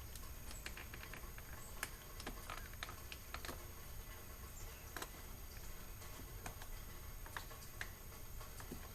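Faint, irregular small clicks and taps of plastic interior door trim on a Lexus SC430 being pried and worked off its clips by hand.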